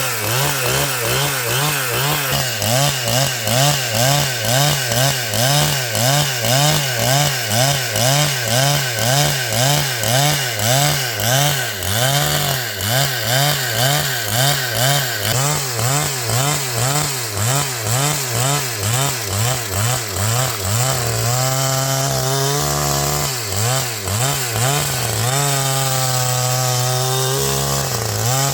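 Chainsaw running and cutting, its pitch and loudness rising and falling in a regular rhythm about once a second. Near the end the engine runs steadier, with a few sudden changes in pitch.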